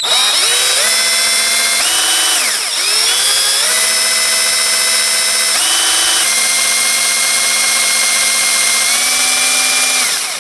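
Cordless drill with a mixing attachment running, stirring epoxy resin and hardener in a bottle. Its motor whine steps up and down in speed several times, dips almost to a stop about two and a half seconds in, and cuts off near the end.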